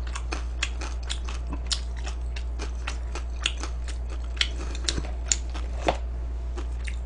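Close-up crunching and chewing of crispy fried chicken: many sharp, irregular crunches as the crisp coating is bitten and chewed, over a steady low hum.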